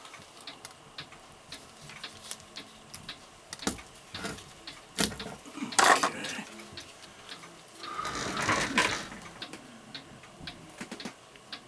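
Mechanical clock ticking steadily, with louder clatter and rustle of parts being handled about six seconds in and again a couple of seconds later.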